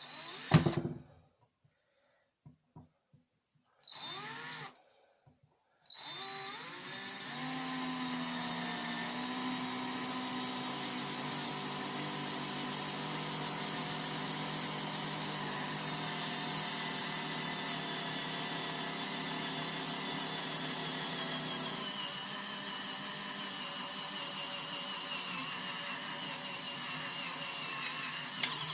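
Electric drill: two short blips, then running steadily for over twenty seconds, drilling a rivet hole through the metal detector's shaft tube; its pitch drops slightly about two-thirds of the way through.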